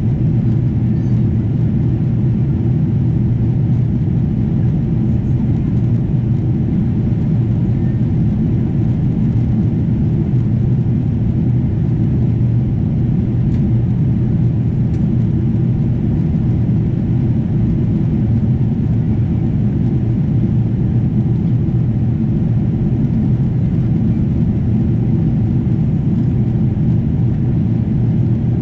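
Steady low rumble of a Boeing 777-200 airliner in flight, engine and airflow noise heard inside the cabin.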